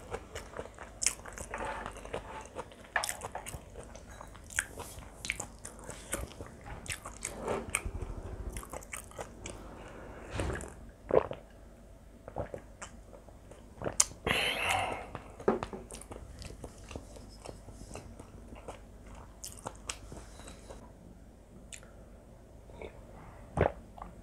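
Close-miked eating of Spam kimchi fried rice: chewing with wet mouth clicks and lip smacks, and a couple of louder knocks. A little past halfway comes a longer sip of mul-kimchi broth drunk straight from a glass bowl.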